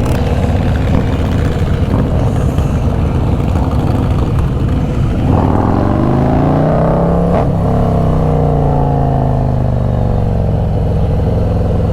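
Several motorcycle engines running together. About five seconds in, one bike revs up, rising in pitch, then its pitch falls away as it passes.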